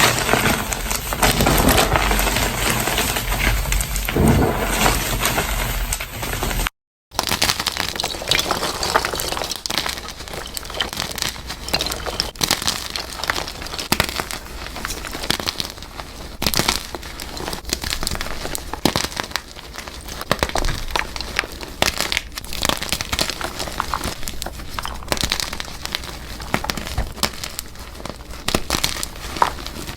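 Blocks of gym chalk being crushed by hand, a dense, crunchy crackling and crumbling. The sound cuts out completely for a moment about seven seconds in, then resumes somewhat quieter and finer.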